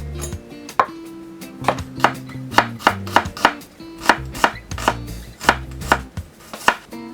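A kitchen knife striking a cutting board over and over, about two to three irregular cuts a second, as vegetables are sliced, with instrumental background music underneath.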